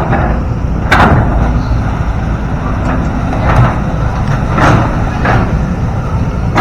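Excavator's diesel engine running steadily under load, with several sharp knocks and clanks from the working machine, the first about a second in and three more in the second half.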